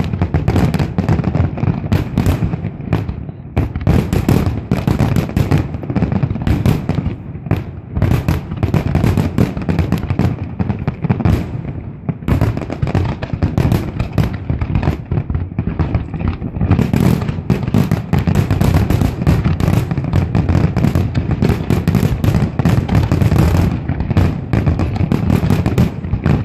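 Large fireworks display: a dense, unbroken barrage of shell bursts and crackle, many reports a second, loud throughout.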